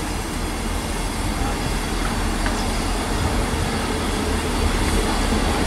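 Class 158 diesel multiple unit running into the platform: a steady rumble of engine and wheels on the rails, growing slightly louder as it comes closer.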